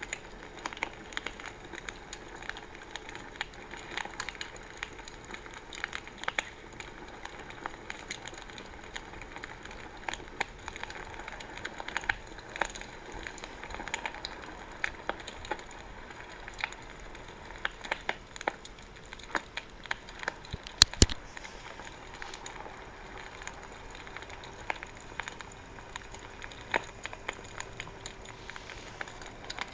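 Wood bonfire crackling: frequent irregular pops and snaps over a soft hiss, with one louder pop about two-thirds of the way through.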